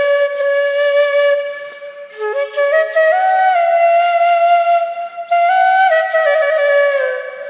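Background music: a solo flute playing a slow melody, its notes held and sliding smoothly from one pitch to the next.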